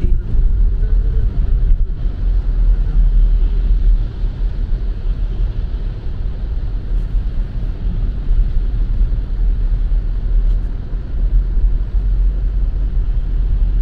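Steady road noise inside a moving car's cabin, with tyres on a wet highway and a continuous low rumble.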